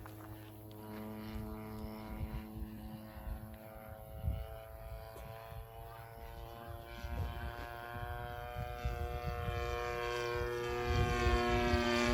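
DLE 30 single-cylinder two-stroke gasoline engine of a Seagull Models Ultimate RC plane running in flight, a steady propeller drone that grows louder near the end.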